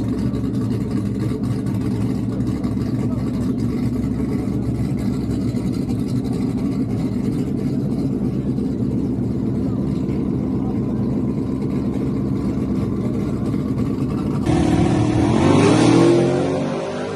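Twin-turbo car engine running steadily with a low, even rumble, then, after an abrupt change about fourteen seconds in, accelerating hard with a rising pitch that peaks and begins to fade near the end.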